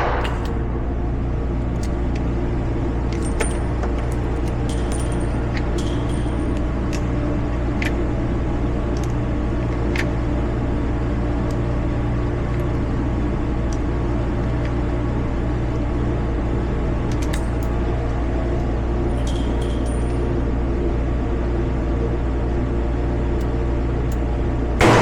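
Steady low rumble with scattered faint metallic clicks and clinks, then a single shot from a Smith & Wesson 640 revolver right at the end.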